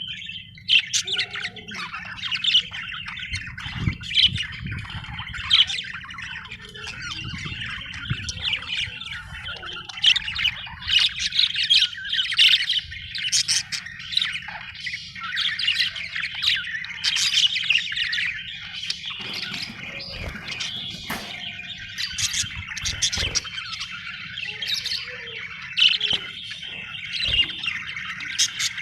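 Budgerigars chattering and chirping continuously in dense, overlapping warbles, with frequent louder sharp squawks.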